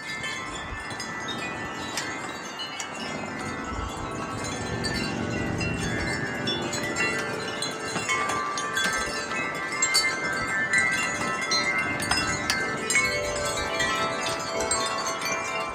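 Several wind chimes ringing continuously as a gust of wind blows through them, many overlapping tones struck in quick succession, getting fuller and louder a few seconds in.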